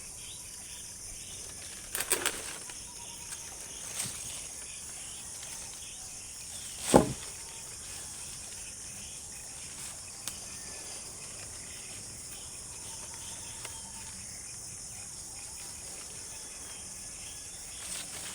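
Steady high-pitched insect chorus in forest, with a few sharp knocks or cracks; the loudest comes about seven seconds in.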